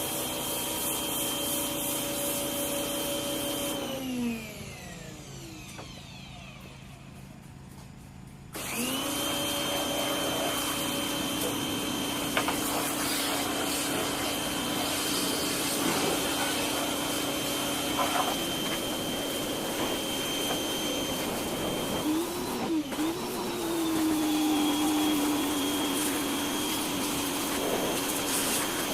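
Pressure washer motor running with a steady whine, spinning down and stopping about four seconds in, then starting up again a few seconds later and running on, as the trigger is released and pulled again while washing an engine bay.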